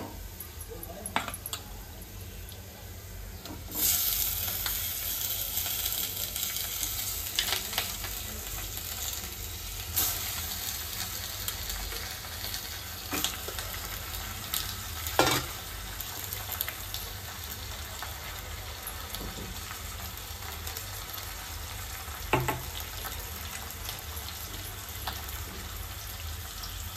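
Raw chicken pieces sizzling in a hot steel pot with sliced onions, the sizzle starting suddenly about four seconds in as the meat goes in and then going on steadily. A few sharp knocks of the steel bowl and pot ring out along the way.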